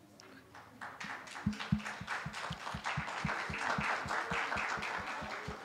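A group clapping together in a steady rhythm, about four claps a second, with scattered applause underneath; it builds about a second in and eases off near the end.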